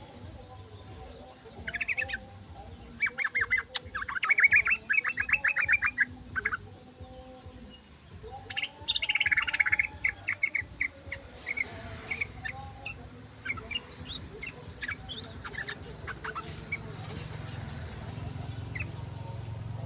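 Yellow-vented bulbul (trucukan) chattering song: three bursts of rapid repeated notes, the longest about three seconds, then scattered single notes.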